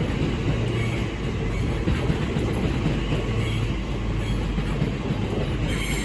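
Passenger train moving through the station: a steady rumble of wheels on rail with a low hum.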